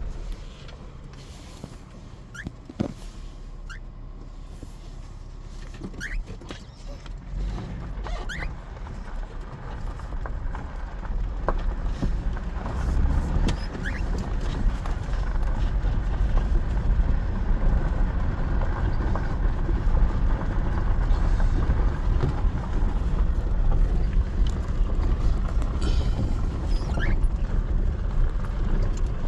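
Vehicle on the move: a steady low rumble of engine and road noise that builds up about a quarter of the way in and holds, with a few short rising chirps on top.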